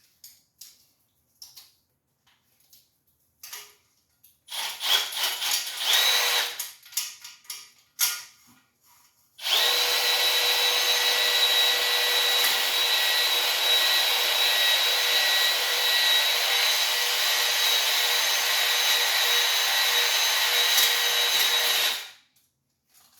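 Electric drill spinning a cylinder hone in the bore of a Ford 289 V8 block. After some light clicks, it runs in a short burst of about two seconds. It then runs steadily with a high whine for about twelve seconds and stops shortly before the end.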